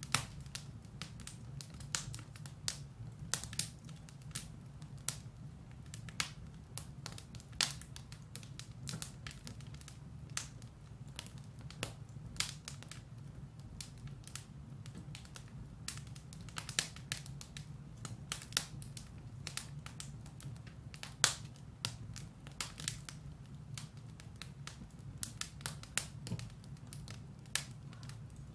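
Firewood burning in a fireplace, crackling with frequent irregular sharp pops over a low steady rumble of the fire.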